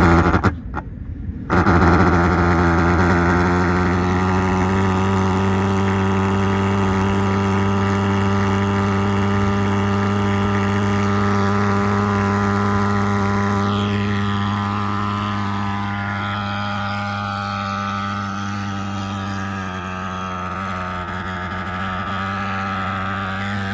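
Agrofog AF-35 pulse-jet thermal fogger starting: a few short sputters, then the pulse-jet catches about a second and a half in and runs with a loud, steady, low buzzing drone.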